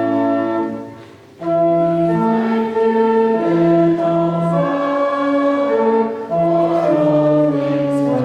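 A church congregation singing a hymn in held chords with organ accompaniment, with a short break about a second in between lines.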